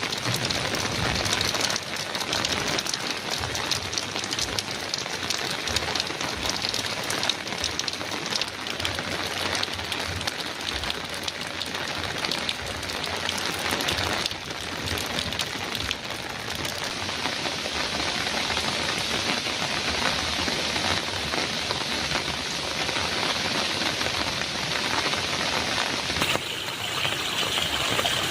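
Heavy rain pelting a metal roof, a steady dense patter of drops. About 26 seconds in, the rain turns hissier and a little louder.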